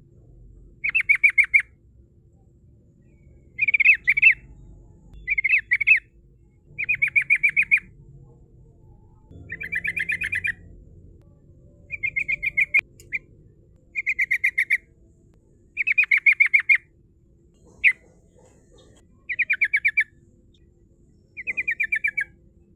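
Yellow-vented bulbul (trucukan) singing: a dozen or so short bursts of fast, rolling, chattering notes, each under a second long and repeated about every one to two seconds.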